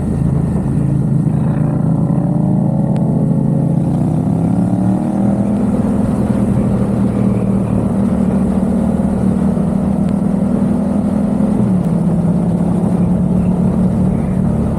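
Yamaha XSR700's parallel-twin engine through an aftermarket MiVV exhaust, under way: the revs climb over the first few seconds, hold steady, then drop a step near the end.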